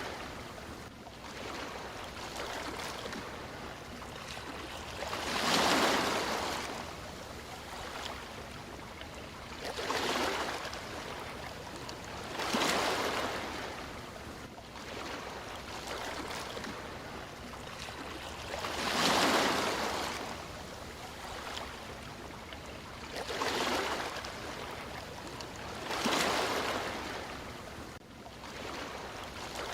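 Sea waves washing onto a shore, each wave swelling and falling away every few seconds over a steady hiss of surf.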